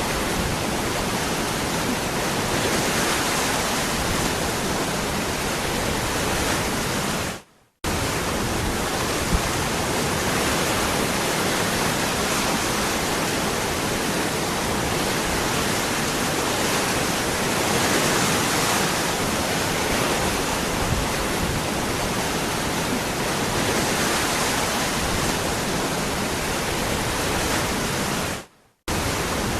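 Waterfall rushing in a steady, dense roar of falling water. It fades out for a moment about a quarter of the way in and again near the end, then comes straight back each time.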